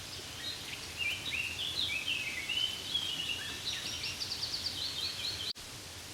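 A songbird singing a long, varied run of short chirping notes, with a fast trill near the middle, over the steady hiss of light rain on leaves. The birdsong and part of the hiss cut off suddenly near the end.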